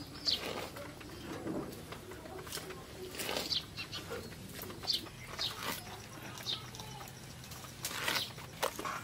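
Birds calling: short, high, quickly falling chirps every second or two, with a few soft clicks and knocks between them.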